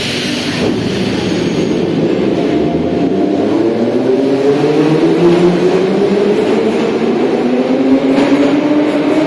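Moscow metro train accelerating: the traction motors' whine rises steadily in pitch over the rumble of the wheels on the rails.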